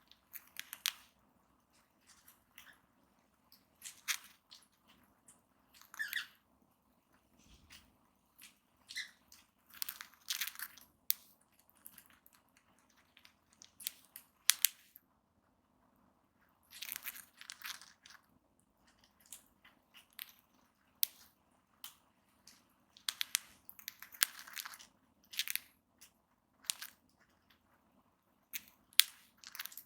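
Cockatiels grinding their beaks: irregular short, crunchy rasps of upper against lower beak, coming in quick clusters with a pause of about two seconds halfway through. Beak grinding is the sign of a relaxed, contented cockatiel, often settling to rest.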